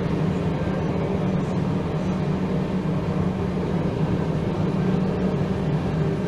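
NS Class 1700 electric locomotive running with a steady low motor hum.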